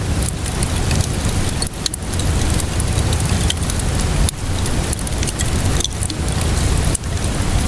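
Steady rainfall mixed with a wood fire crackling, with frequent short sharp pops over a low, even rumble.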